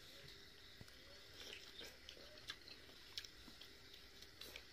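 Near silence, with faint, scattered mouth clicks of a person chewing food eaten by hand.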